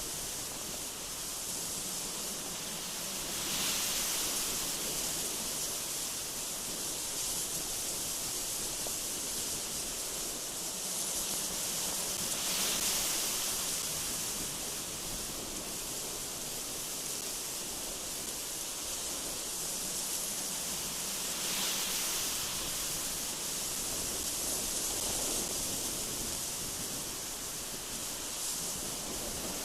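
Strong, gusty wind blowing through trees: a steady high hiss that swells in gusts about every eight or nine seconds.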